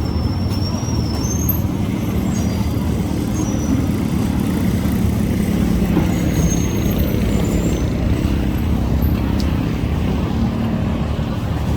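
Engines running steadily with a low, even rumble, with a few short high-pitched chirps or squeaks above it.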